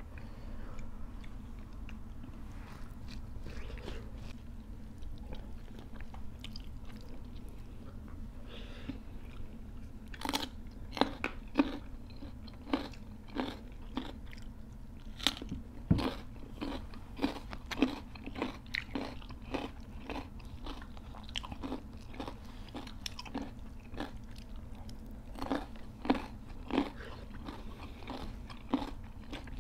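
Close-up chewing and biting as two people eat rice, curry and raw vegetables by hand. Quiet at first, then from about ten seconds in a run of sharp, loud mouth sounds, about two a second.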